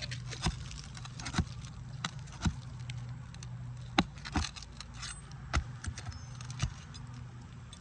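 Metal flat bar prying and scraping at old asphalt roof shingles, giving irregular sharp clicks and knocks, the loudest about four seconds in. A steady low hum runs underneath.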